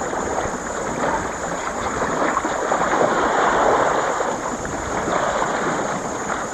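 Wind and water rushing aboard a sailboat under way: a steady, fluctuating wash of waves along the hull mixed with wind on the microphone.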